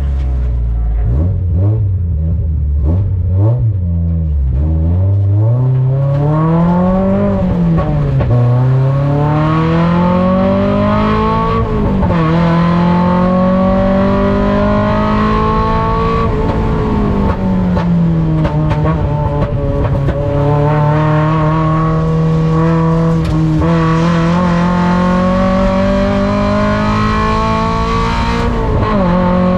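Mazda Miata ITA race car's four-cylinder engine heard on board. In the first five seconds it sits at low revs with quick throttle blips. Then it accelerates hard up through the gears, the revs climbing and dropping back at each upshift about four seconds apart, before holding fairly steady at high revs, with a brief lift and pickup near the end.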